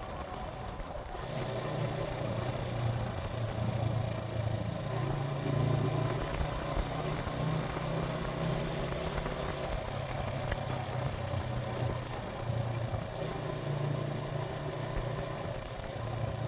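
Suzuki GN125's single-cylinder engine running at a steady pace under way, getting a little louder about a second and a half in.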